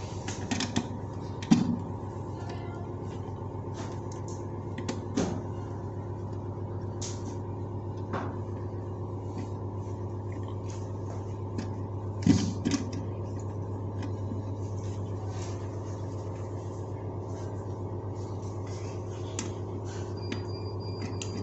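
Scattered clicks and knocks of a concealed toilet cistern's fittings being worked loose by hand, over a steady low hum.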